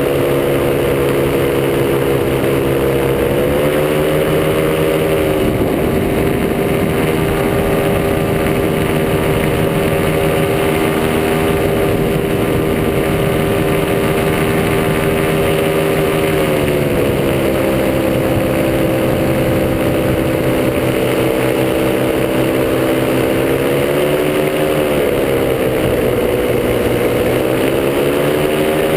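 Top 80 paramotor's single-cylinder two-stroke engine running in flight, its pitch stepping up a few seconds in, dropping back about halfway through, then dipping and climbing again near the end as engine speed changes.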